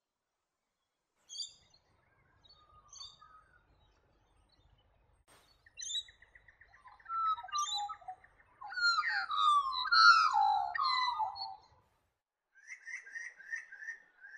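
Australian magpie of the black-backed form singing. A few short notes come first, then a fast run of repeated notes, then a loud burst of tangled warbling song around the middle, and another quick series of notes near the end.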